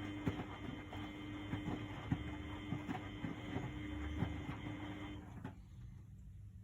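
Miele Novotronic W828 washing machine filling: water rushes in through the inlet valve with a steady hum and scattered ticks, then the valve shuts and the flow cuts off suddenly about five seconds in, leaving a faint low rumble.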